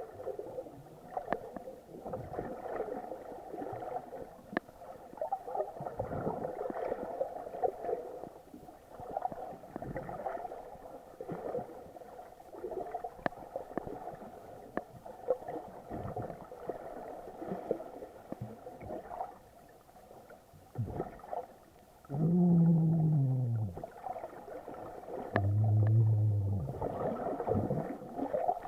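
Underwater sound of snorkeling picked up by an action camera in its waterproof housing: water gurgling and sloshing, with scattered small clicks. Near the end come two short, loud low hums, the first falling in pitch and the second held steady.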